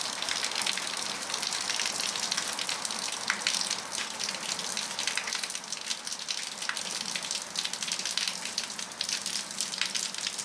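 Heavy rain pouring down, a steady rush of water with many fine drop ticks through it.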